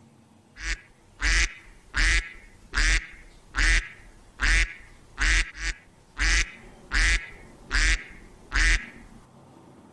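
A duck quacking in a steady series of about a dozen loud quacks, one roughly every three-quarters of a second.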